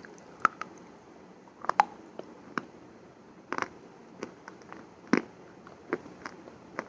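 Close-miked crunchy ASMR: sharp, irregular crisp crunches and snaps, about a dozen, the loudest about half a second in, near two seconds and just after five seconds.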